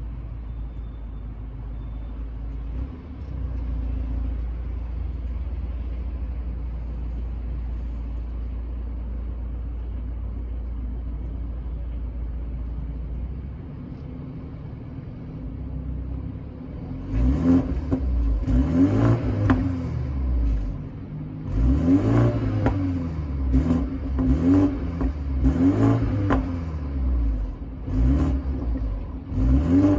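BMW 330i's exhaust, first a steady low idle rumble, then from a little past halfway revved again and again in quick blips, the pitch rising and falling with each one.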